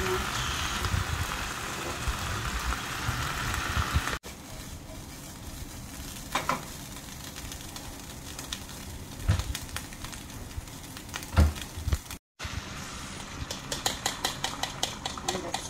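Food frying in a hot non-stick pan. First, fresh spinach gives a loud, steady sizzle. After a sudden drop comes the quieter sizzle of diced sausage, with a few sharp knocks, and near the end beaten eggs poured into the pan crackle with rapid pops.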